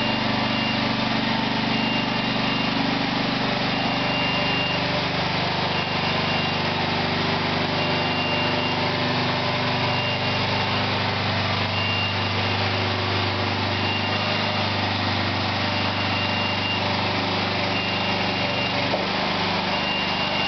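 A small engine running steadily, with a high-pitched warning beep sounding on and off about every second or so.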